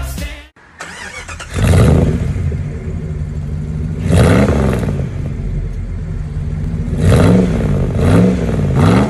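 Car engine running after a brief silence, from about a second and a half in, and revved up and back down four times, its pitch rising and falling with each rev.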